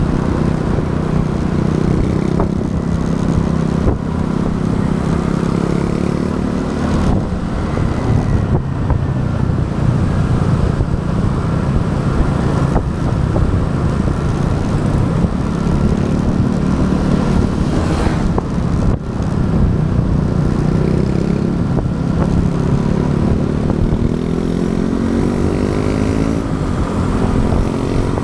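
Motorbike engine running while riding, over a dense low rumble of wind and road noise on the camera's microphone. The engine note shifts with speed and climbs near the end as the bike speeds up.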